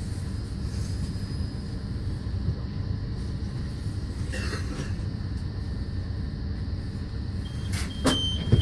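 Passenger train running slowly, a steady low rumble heard from inside the carriage, with a brief hiss about halfway through. Near the end a high steady tone starts and a few sharp clunks follow.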